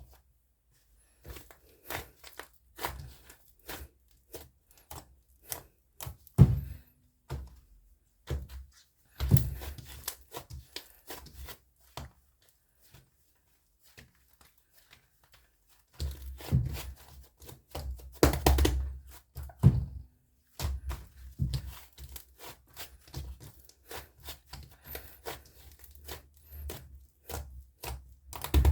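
Slime being pressed, poked and stretched by hand, giving irregular sticky clicks and pops in clusters. There is a quiet pause in the middle, and the handling gets busier and louder after it.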